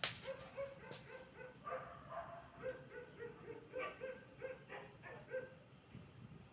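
A young pet crying in a long series of short, high-pitched whimpering calls, about two or three a second, after a sharp click at the start.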